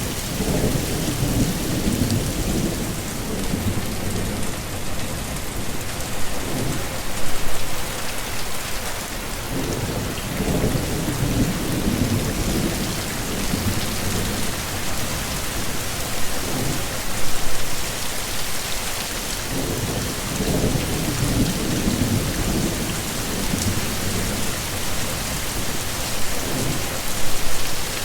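Heavy rain falling steadily, with low thunder rumbling in several long rolls underneath. Three brief, louder hits stand out about ten seconds apart.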